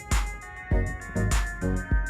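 Background music: an upbeat electronic track with a steady kick-drum beat, hi-hat ticks and held synth tones.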